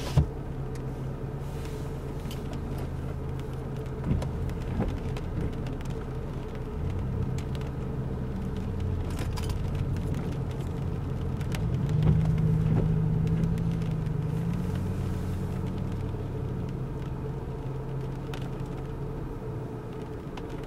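Car engine and road noise heard from inside the cabin while driving; the engine note rises and gets louder about twelve seconds in, then eases off.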